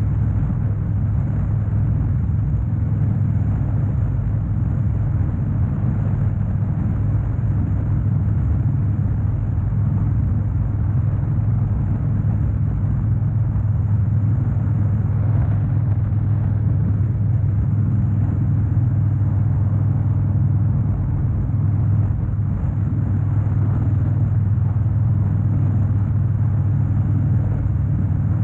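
2013 Harley-Davidson Dyna Wide Glide's 103-cubic-inch V-twin engine running steadily, its sound deep and even with no revving.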